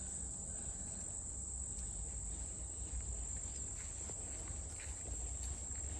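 Steady high-pitched chorus of insects trilling in the late-summer undergrowth, with faint scattered rustles and ticks beneath it.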